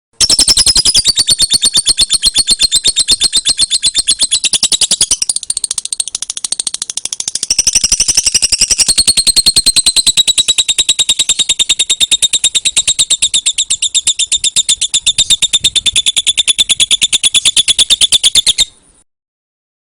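Lovebird ngekek: a long, unbroken rapid chatter of high-pitched notes, many to the second. It runs for about eighteen seconds, eases off in loudness between about five and eight seconds in, then stops suddenly.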